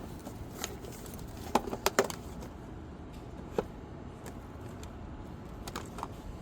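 Metal hand tools clinking: a few sharp clicks and clinks, the loudest cluster about a second and a half to two seconds in, with single clinks later.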